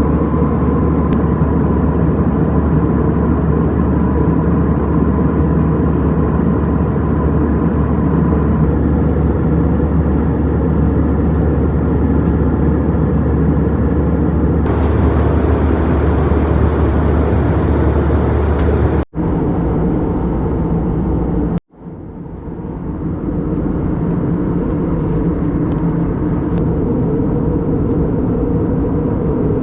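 Airbus A320 cabin noise in flight: a steady, loud rumble of engines and airflow, with a faint steady hum early on. It breaks off twice for an instant about two-thirds of the way through and comes back duller, with less hiss.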